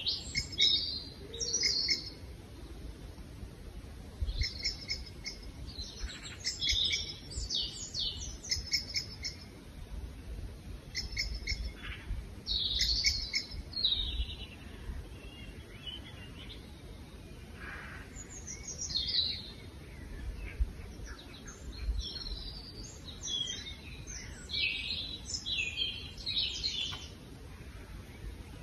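Small birds chirping and singing: short high calls repeated in quick clusters every second or two, over a low steady background rumble.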